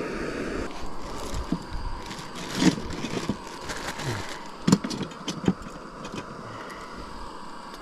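Potato chips sizzling as they shallow-fry in hot oil: a steady hiss, with a few sharp clicks of a utensil against the pan.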